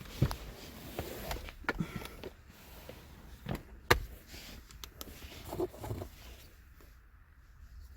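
Scattered sharp clicks and knocks of someone handling things around a car, over a low rumble, the loudest knock about halfway through.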